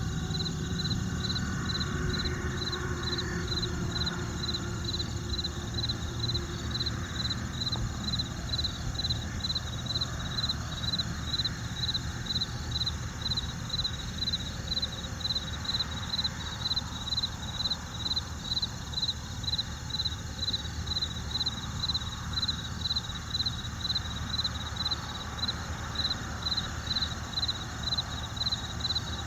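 An insect chirping steadily in a high-pitched, even rhythm of about two chirps a second, over a low steady background rumble.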